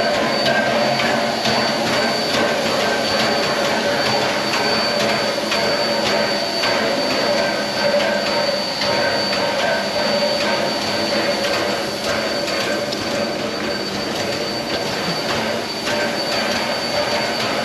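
Reading T-1 4-8-4 steam locomotive standing at rest and hissing steadily, with a constant high tone over the loud hiss and faint irregular clicks.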